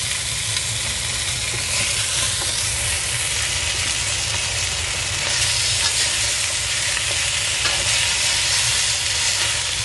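Chicken pieces sizzling in hot oil in a cast iron wok, a steady frying hiss over a low steady rumble, with a few light clicks of a metal fork and spatula against the wok as pieces are lifted out.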